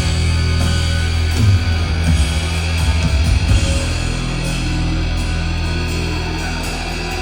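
Live rock band playing an instrumental passage: heavy distorted guitars and bass with drums, the drum hits dropping away about four seconds in to leave sustained chords.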